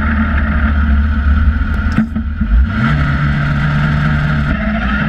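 Westfield SEi sports car's engine heard from its open cockpit, idling on the hillclimb start line. About three seconds in, the revs are raised and held steady ready for the launch, and near the end the car pulls away.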